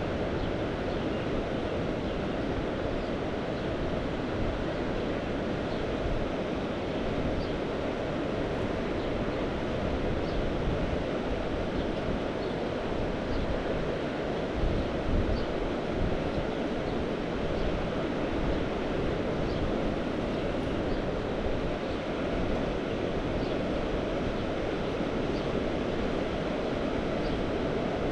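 Mediterranean sea surf washing steadily, with wind rumbling on the microphone.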